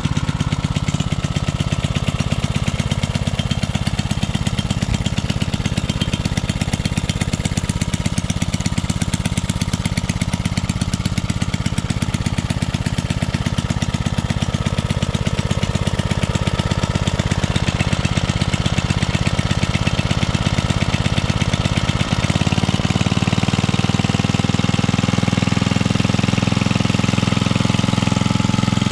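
Early 1970s Briggs and Stratton 4 hp single-cylinder engine running steadily just after a first-pull start. About two-thirds of the way through it picks up speed slightly and holds there.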